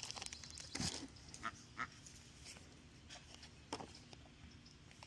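Pet waterfowl calling: a few short, faint calls, one about a second in dropping in pitch, two more around the middle and another near the end.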